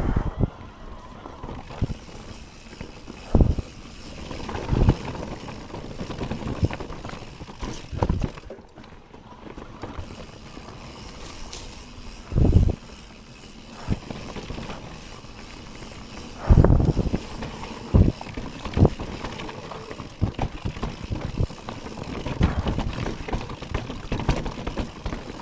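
Mountain bike descending a rough downhill trail: a steady rush of tyre noise with rattling, broken by a series of heavy thumps as the bike lands over bumps and drops.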